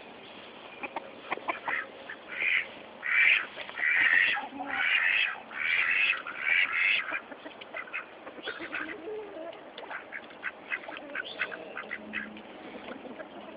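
Domestic ducks quacking: a run of loud, overlapping quacks from about two to seven seconds in, then many short, quieter quacks.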